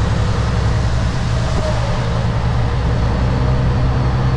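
Kenworth W900 semi truck's diesel engine running steadily at low speed, heard inside the cab as an even low drone with road noise.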